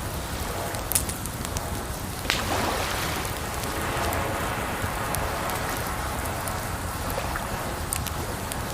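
Campfire crackling with a few sharp pops, the strongest about a second and two seconds in, over a steady wash of water.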